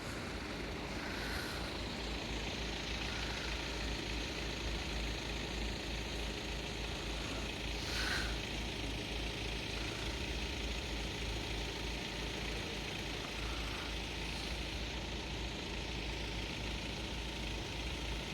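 Road vehicle engine idling with a steady low rumble, over a general traffic hum; a brief louder swell comes about halfway through.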